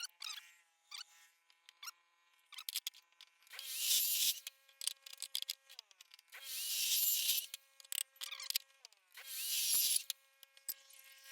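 A power cutting tool going through steel picket stock: three cuts of about a second each, the motor's steady whine running on for a moment after each, with sharp clicks of metal being handled between them.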